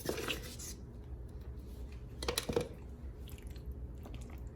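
Cornstarch being added to and worked into raw chicken in a wet egg marinade: two brief mixing sounds, one at the start and a louder one about two seconds in, over a low steady hum.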